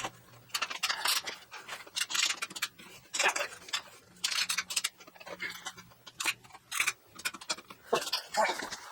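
Irregular clicks, clinks and short scrapes of metal parts and hand tools being handled.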